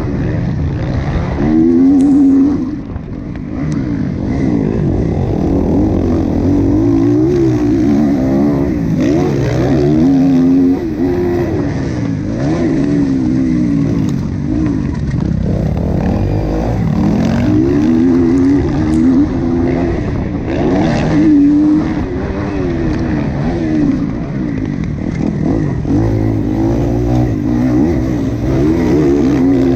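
Motocross motorcycle engine racing, its pitch rising and falling again and again as the throttle is opened and shut through the course.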